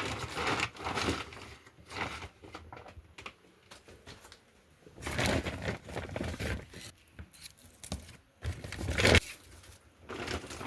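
Irregular rustling and crinkling of something being handled, in several bursts with small clicks; the loudest burst comes near the end.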